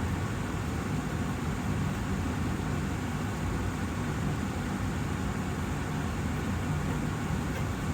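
Austin Air HealthMate air purifier's fan running steadily, an even whooshing hum of air.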